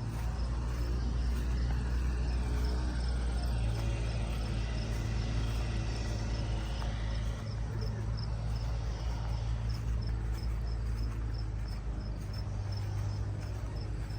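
An engine running steadily at low speed, a low even hum, with an insect chirping in a regular rhythm about two to three times a second.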